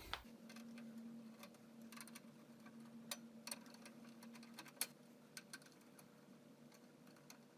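Faint, scattered small clicks and ticks of hands undoing the rear case fan's housing on a desktop computer case, over a faint steady hum.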